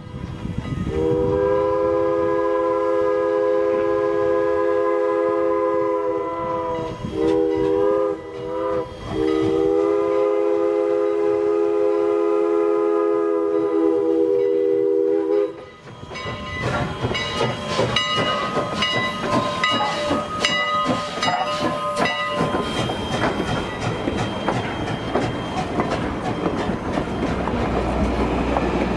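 Three-chime Pennsylvania Railroad steam whistle on steam locomotive Canadian National #89 blowing a long blast, a couple of short wavering ones and another long blast as the engine departs. About sixteen seconds in the whistle stops and the train rolls past with steady wheel clatter and clicking over the rail joints.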